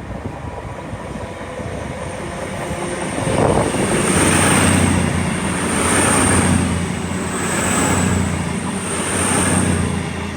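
CrossCountry Class 221 Voyager diesel-electric multiple unit moving through the station, its underfloor diesel engines giving a steady low hum. The sound builds from about three seconds in, then swells and fades four times, about every second and a half to two seconds, as the cars go by.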